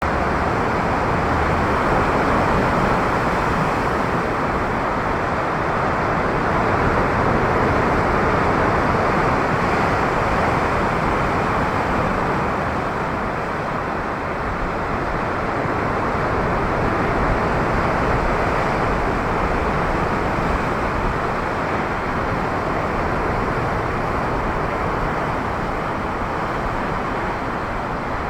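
Rough sea: a steady roar of surf and wind, swelling and easing slowly, with no breaks.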